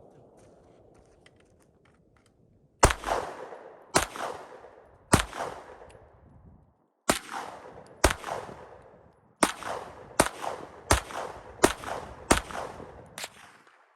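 Eleven gunshots fired one at a time during target shooting, each with a rolling echo. The first comes about three seconds in, the rest follow roughly a second apart, coming faster near the end.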